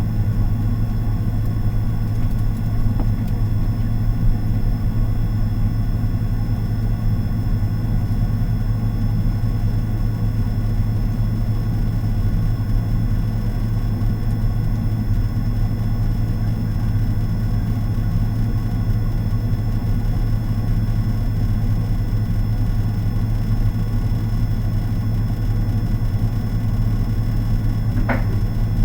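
Refrigerator running with a steady low hum that does not change. A brief short squeak just before the end.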